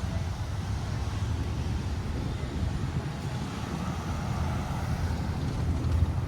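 Steady low rumble of an idling fire apparatus engine.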